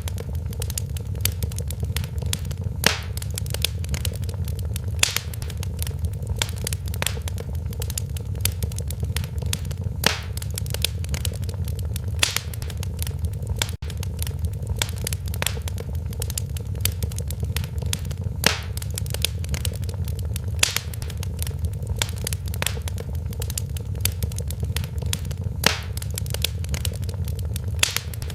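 Wood fire in a fireplace, crackling steadily. Frequent small crackles and a louder sharp pop every few seconds sit over a low, even rumble of the flames.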